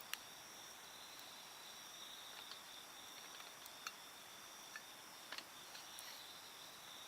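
Night insects trilling steadily at a high pitch, with a few sharp pops from a wood campfire crackling.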